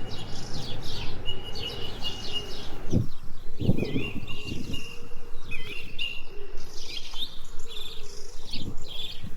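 Small birds chirping and calling repeatedly outdoors, with a few low thuds about three seconds in.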